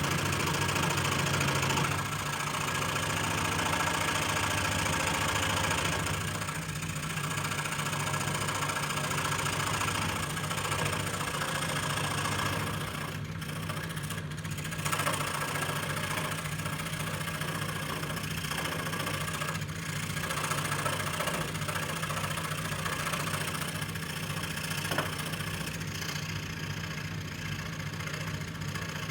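Electric scroll saw running steadily with an even mechanical hum.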